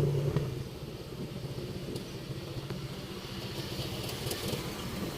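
Motorcycle engine running; its steady hum drops away about half a second in, leaving a lower, uneven rumble.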